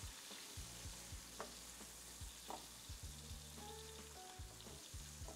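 Shrimp and sliced garlic sizzling faintly in olive oil in a nonstick frying pan, stirred with a wooden spatula that clicks against the pan now and then.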